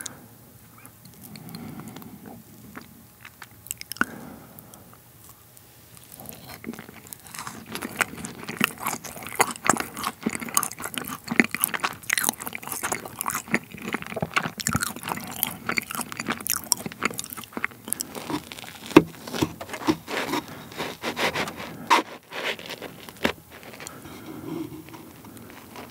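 Close-miked chewing of a macaron, its crisp shell crunching in the mouth: a few sharp bites at first, then dense crackly crunching for most of the stretch, easing off near the end as hands begin breaking up a crisp meringue pavlova.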